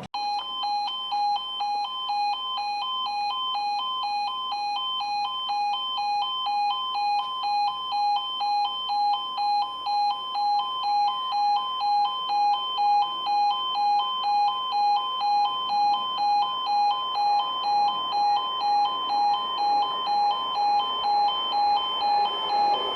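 Level crossing audible warning alarm sounding: an electronic two-tone alarm pulsing evenly, about twice a second, the warning that a train is approaching.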